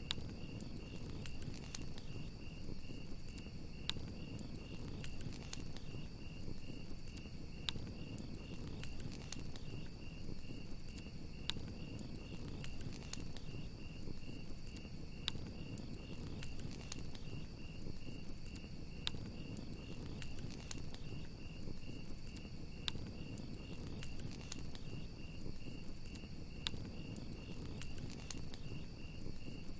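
Crickets chirping steadily in a fast pulsing trill over a crackling campfire, with scattered sharp pops from the fire and a low rush of flames underneath.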